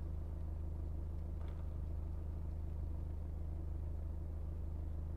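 Steady low hum of a car heard from inside the cabin, most likely the engine idling, with a faint click about a second and a half in.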